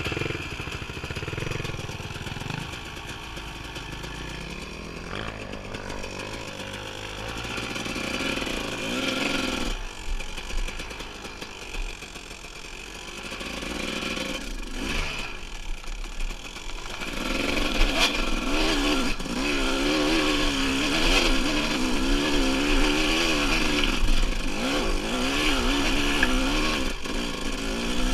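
Dirt bike engine running on a trail ride, its revs rising and falling over and over. It is quieter at first and gets louder and busier a little over halfway through.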